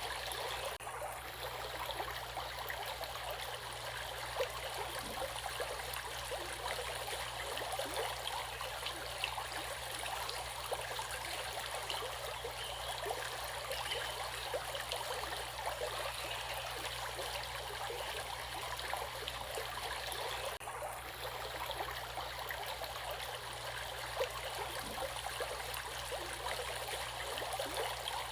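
Running water, a stream or small river flowing and splashing, heard as a steady, even rush with fine gurgling.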